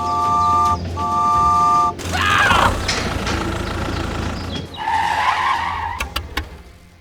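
A vehicle horn sounding twice, two long steady chord-like beeps, followed by vehicle and tyre noise.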